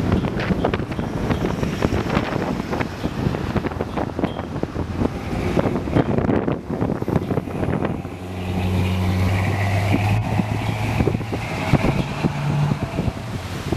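Strong gusting wind buffeting the microphone. About eight seconds in, a low steady hum joins under the wind for about five seconds, then fades.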